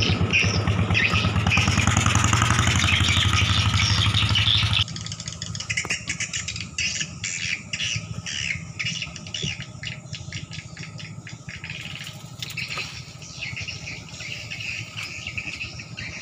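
A small engine running steadily, loud for about the first five seconds, then much quieter after a sudden drop and running on. Night insects or frogs chirp busily throughout.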